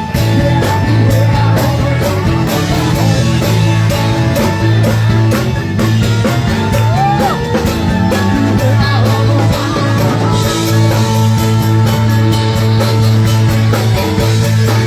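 Rock band playing live: guitar and drums over a steady beat, with some bending guitar or vocal notes about seven seconds in.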